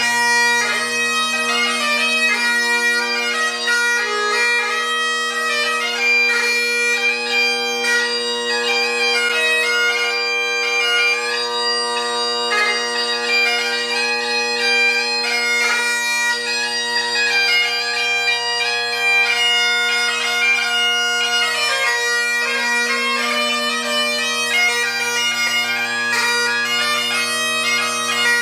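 MacLellan Highland bagpipes in Royal Mexican Ebony, fitted with Ezee drone reeds, a blackwood solo chanter and a sheepskin bag, playing a tune. The chanter melody moves quickly from note to note over the steady hum of the drones.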